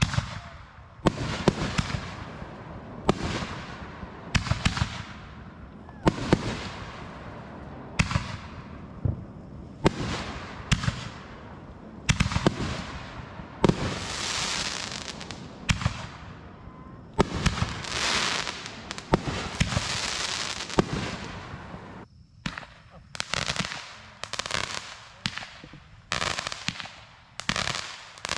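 Fireworks going off in a steady run: a sharp bang every second or two, each trailed by hissing crackle. Near the end the bangs come faster and shorter.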